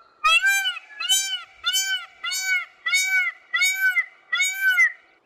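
A bird calling in a series of about seven repeated, arched notes, each rising and falling in pitch, at an even pace of about one and a half a second, stopping near the end.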